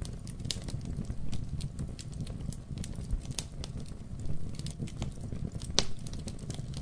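Wood fire crackling in a fireplace: irregular sharp pops and snaps over a low steady rumble of flames, with one louder pop near the end.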